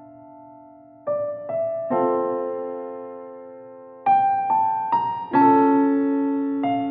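Slow piano music: single notes and chords struck a few times, each left to ring and fade, with a quiet lull at the start before the notes begin about a second in.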